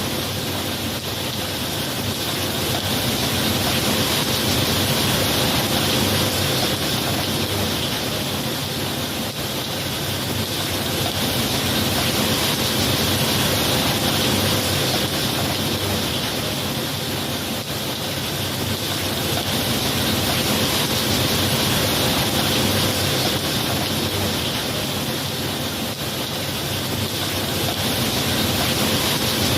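Heavy rain falling steadily, its level slowly swelling and easing every eight to ten seconds.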